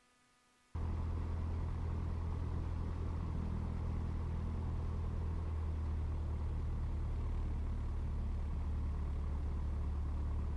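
Piper Warrior II's four-cylinder Lycoming engine and propeller heard from inside the cabin, a steady low drone at taxi power as the plane lines up on the runway. It cuts in suddenly about a second in and holds an even pitch and level.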